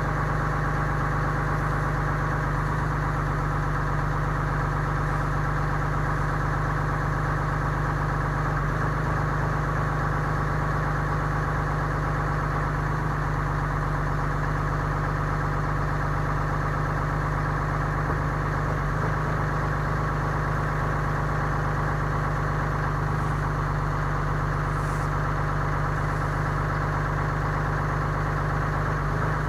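A 2015 Ram 3500's 6.7L Cummins inline-six turbo diesel idling steadily, warming up after a cold start in 7-degree weather.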